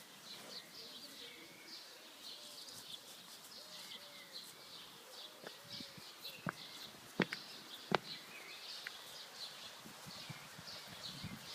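Birds chirping and twittering in quick repeated calls, with a few sharp knocks about seven and eight seconds in.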